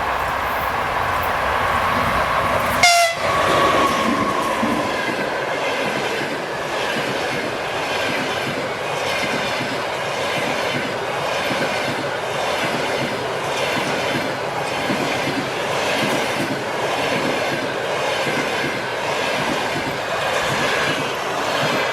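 A train passing close by on the main line: its horn sounds for the first few seconds and dips slightly in pitch as the locomotive goes past, a sharp bang about three seconds in, then the wagons roll by with a steady, rhythmic clicking of wheels over the rail joints.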